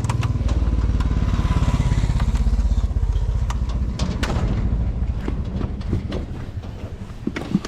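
Motorcycle engine running, loudest for the first few seconds, then fading away, with a few scattered clicks and knocks.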